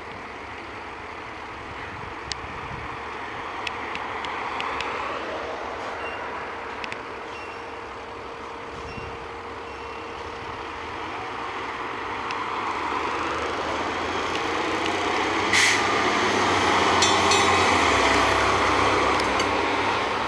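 Spartan MetroStar/Toyne fire engine running, getting louder as it comes closer and loudest about three-quarters of the way in, with its warning bell ringing. A short sharp burst sounds just as it draws level.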